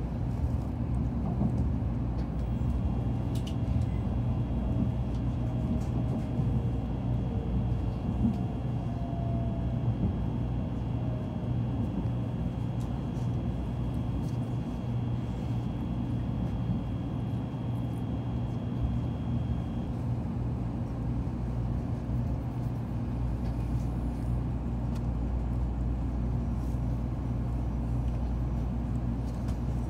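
Cabin noise inside a Nozomi Shinkansen train slowing for a station stop: a steady low rumble, with a faint motor whine falling in pitch through the first ten seconds or so and a thin high tone that stops about twenty seconds in.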